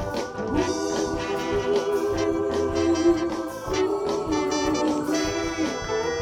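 Ten-piece soul band playing live in an instrumental gap between sung lines, with held keyboard chords over a steady beat.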